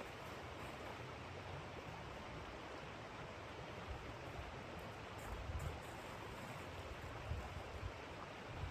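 Steady blizzard wind noise, with low rumbling gusts buffeting the microphone several times.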